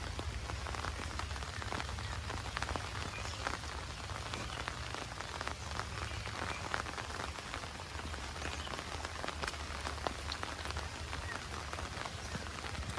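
Heavy monsoon rain falling steadily: a dense hiss with many sharp individual drop taps, over a low steady rumble.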